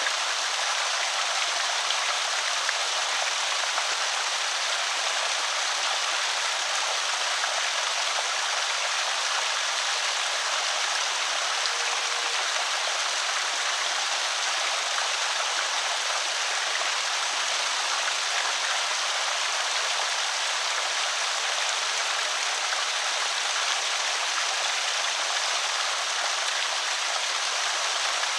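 Water pouring steadily over a small creek spillway, an even splashing rush.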